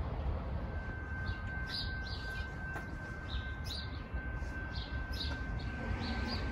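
Small birds chirping in short, repeated calls over a steady low background rumble, with a faint steady high-pitched tone held from about a second in.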